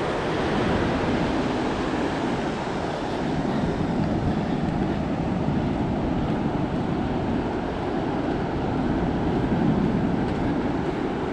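Steady rushing noise of ocean surf mixed with wind buffeting the action-camera microphone.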